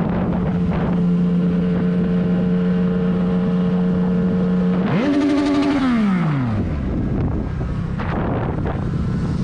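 Motorcycle engine running at a steady speed. About five seconds in it revs up briefly, then its pitch falls smoothly over a couple of seconds as the bike slows, with road and wind rumble underneath.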